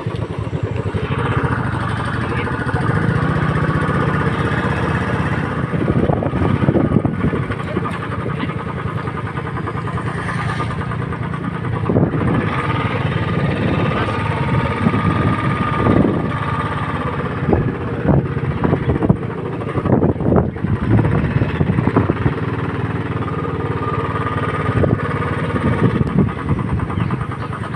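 Motorcycle engine running steadily while riding, with wind buffeting the microphone in gusts.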